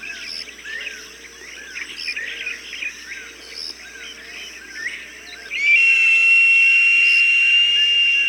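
Many small birds chirping in quick, overlapping calls. About five and a half seconds in, a long, steady, high whistled note starts and holds over them.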